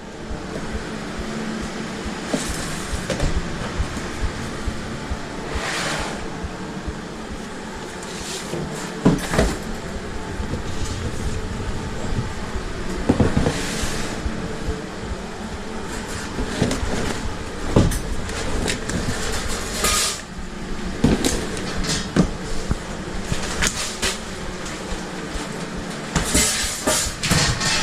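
Food truck kitchen at work: a steady hum of running equipment with scattered knocks and clatter.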